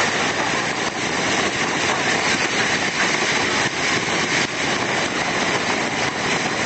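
Steady, loud noise of heavy rain and strong wind from a severe storm.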